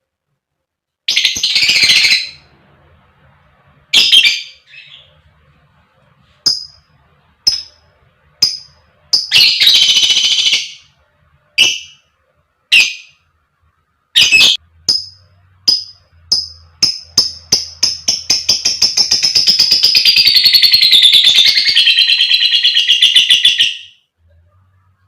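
Lovebird calling: harsh squawk bursts and a run of short sharp chirps, building into a long rapid chattering trill (the 'ngekek panjang') of about seven seconds near the end.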